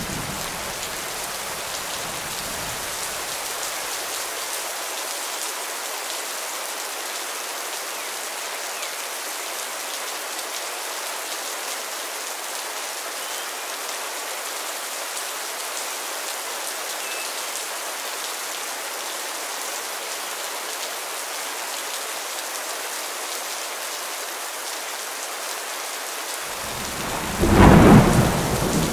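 Steady rain falling, with a low rumble of thunder dying away in the first few seconds and a loud roll of thunder near the end.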